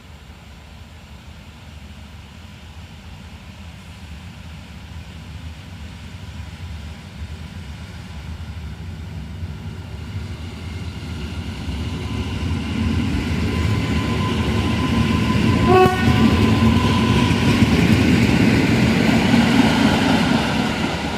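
EN57AL electric multiple unit approaching on the rails, its rumble and wheel noise growing steadily louder. It sounds a short horn blast about three quarters of the way through and is at its loudest near the end.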